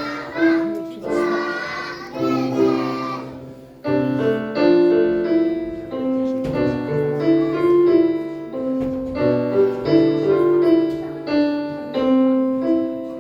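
Young children's choir singing over electronic keyboard accompaniment. About four seconds in the voices stop and the keyboard plays the tune alone as an instrumental passage, in clear separate notes.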